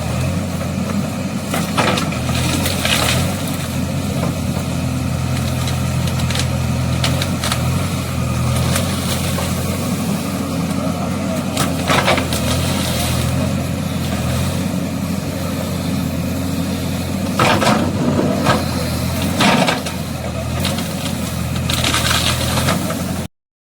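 A vehicle engine idling steadily, with a few sharp knocks and clatters over it. The sound cuts off abruptly near the end.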